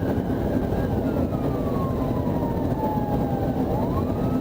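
Police siren on wail: a slow fall in pitch over about three seconds, then a quick rise near the end, over loud vehicle engine and road noise.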